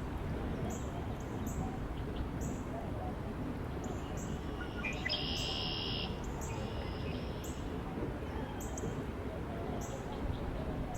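Steady wind noise with a single bird call about five seconds in, lasting about a second. Short high chirps repeat about once a second throughout.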